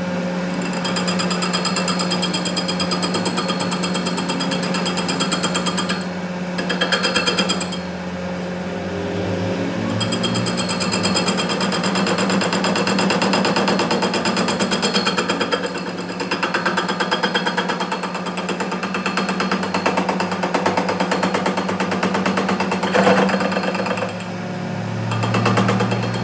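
Workshop machinery or power tool running with a fast, steady rattling pulse over a continuous low hum, easing briefly a few times.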